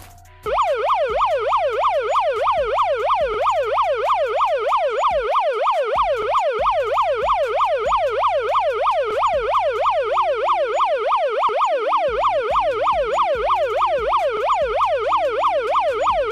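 Police siren in its fast yelp mode, a tone sweeping rapidly up and down about three times a second, starting about half a second in.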